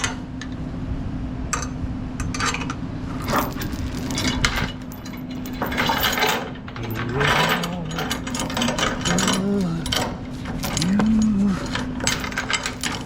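Irregular metal clinks and clanks of chain securement gear being handled, over a steady low hum. A man's voice sings in short snatches in the second half.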